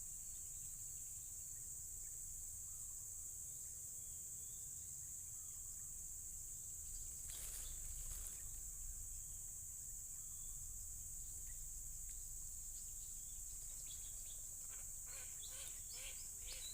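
Steady, high-pitched insect chorus droning without a break, with a brief rustle about halfway through and a few light clicks near the end.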